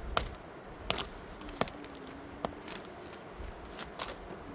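About five sharp knocks or clicks at irregular intervals, hard objects striking.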